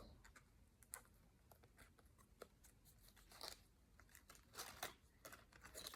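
Faint, scattered clicks and short soft rustles of small cardboard craft pieces being handled and folded.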